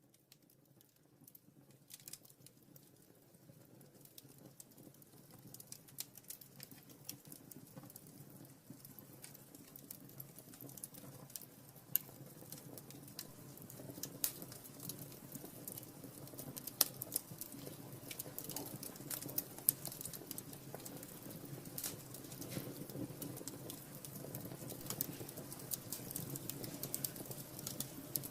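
Wood fire crackling in a fireplace: scattered sharp pops and crackles over a low rushing sound, the whole getting steadily louder.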